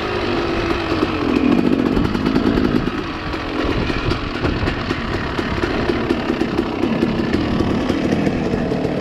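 Dirt bike engine running as it is ridden along a trail, its pitch rising and falling with the throttle.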